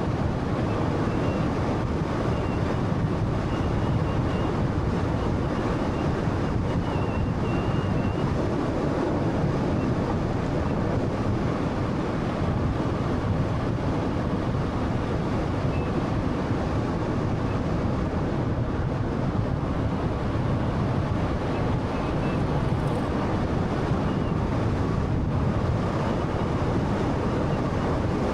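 Steady road and tyre noise from a 2013 Honda Fit's 1.3-litre car driving at a constant pace, a continuous rushing hum with no change in speed.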